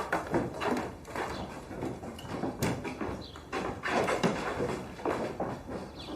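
Horses' hooves clip-clopping in an uneven run of knocks as a group sets off, stopping abruptly near the end.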